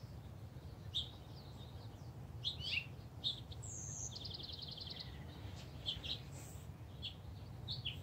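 Small songbirds chirping, with short high calls scattered throughout and a rapid trill about four seconds in, over a steady low background rumble.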